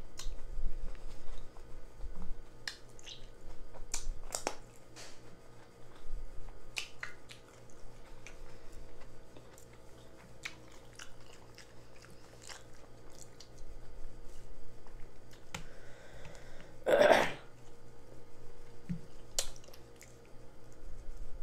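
Close-up chewing and mouth smacking of a jalapeño cheddar sausage in a bun, with many short wet mouth clicks and one louder, longer mouth sound about 17 seconds in.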